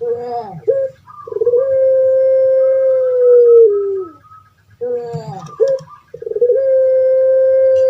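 Puter pelung dove (Barbary dove, Streptopelia risoria) giving its long call twice. Each call is a short, broken run of falling notes followed by one long, drawn-out coo that drops in pitch at the end.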